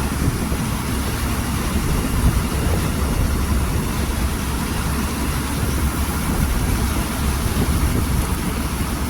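Combine harvester's diesel engine running steadily, a constant low rumble with mechanical noise.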